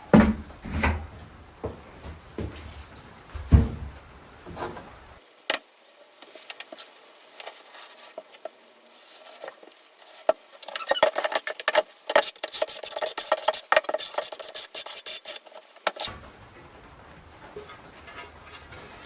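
Tile-setting work with porcelain floor tiles and thinset mortar: a few sharp knocks in the first four seconds, then a long stretch of quick, dense scraping and rubbing that is busiest in the second half.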